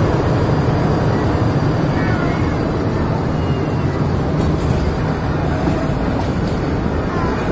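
Nilgiri Mountain Railway passenger train running through a tunnel: a loud, steady rumble of wheels on rails, echoing off the close tunnel walls.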